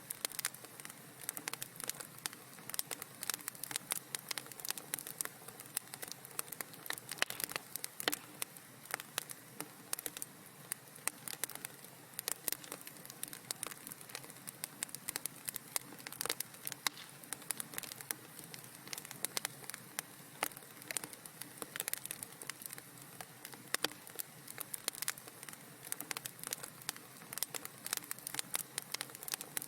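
Wood fire burning in a fireplace: dense, irregular crackles and small pops over a soft steady hiss.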